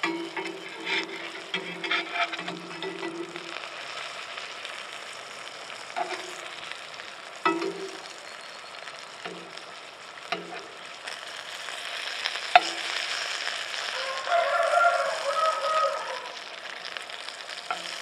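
Sausage patties sizzling gently in a frying pan over low-to-medium heat, between simmer and medium. A metal spatula scrapes the pan and turns the patties, with a scattering of sharp clinks against the pan and a louder stretch of scraping near the end.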